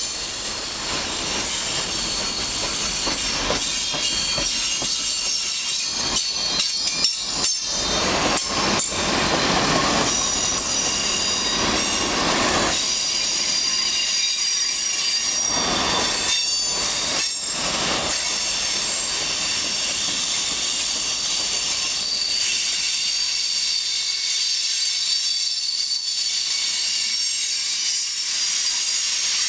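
Freight cars rolling past on steel wheels, with a constant thin, high wheel squeal. Bunches of knocks and rattles come about a quarter of the way in and again a little past the middle.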